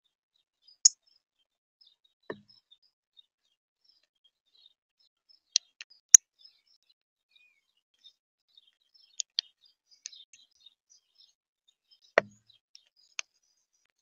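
Birds at a feeder: a scattering of sharp clicks and taps, about eight spread over the span, two of them with a duller knock, and faint high chirps of small birds in between.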